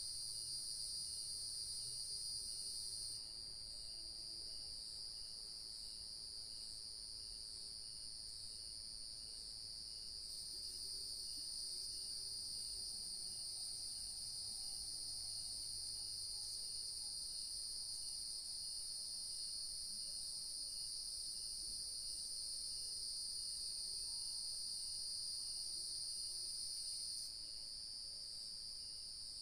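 Dusk insect chorus of crickets: a steady high-pitched trilling with two layers, the higher layer fading for a few seconds about three seconds in and again near the end. A fainter, lower chirp repeats evenly, a few times a second, underneath.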